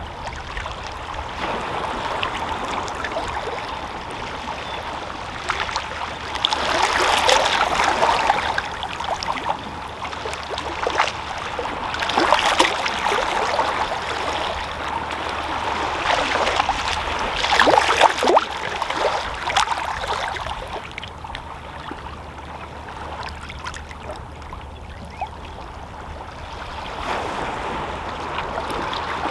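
Small, calm sea waves lapping and splashing against shoreline rocks, coming in gentle surges every few seconds with trickling water in between.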